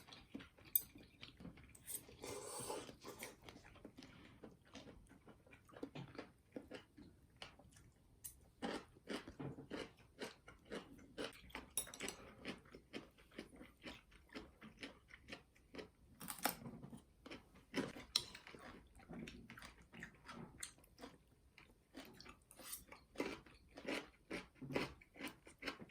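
Someone chewing and biting food close to the microphone: a faint, irregular run of small crunches and mouth clicks.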